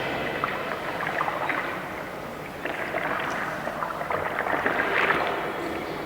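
A dense, irregular patter of many small clicks and rustles from a group of performers, making a water-like sound texture.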